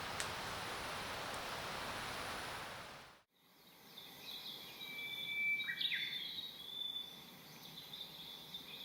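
Steady outdoor noise with one sharp click, cutting off abruptly about three seconds in; then a bird calls in high whistled notes, some held steady and one sweeping quickly.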